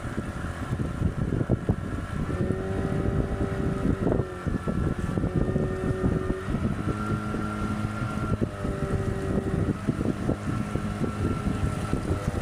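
A boat's motor running steady, with its pitch shifting a little a few times, and wind buffeting the microphone.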